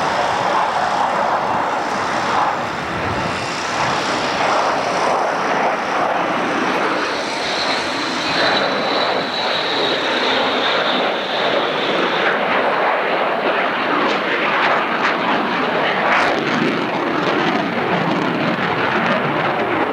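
Aircraft engines running loud and steady as a plane flies at the airshow. A thin high whine rises out of the noise about a third of the way in and fades a few seconds later.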